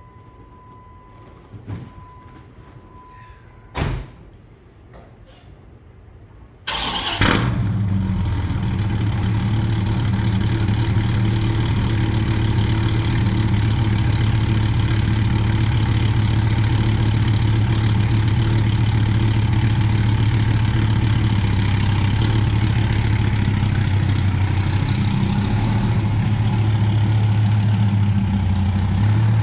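Vehicle engine started from cold: two clicks, then about seven seconds in it fires suddenly and settles into a steady idle.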